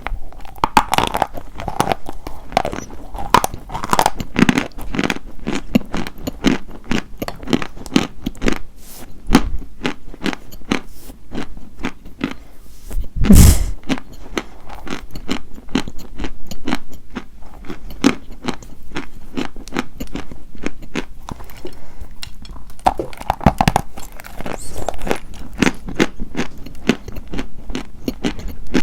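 Close-miked biting and chewing of dry white chalk: a dense run of crisp crunches, with one much louder bite about thirteen seconds in.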